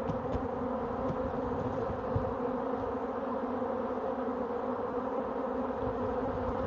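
Honeybee swarm in flight: a steady, dense buzzing hum of thousands of bees in the air as the swarm gathers into clusters.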